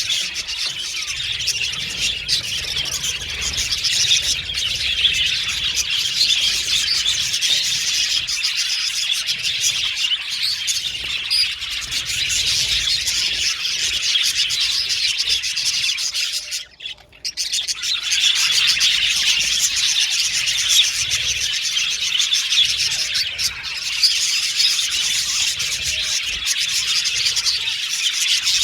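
A flock of budgerigars chattering and chirping continuously in a dense, overlapping warble. It breaks off for about a second a little past the middle.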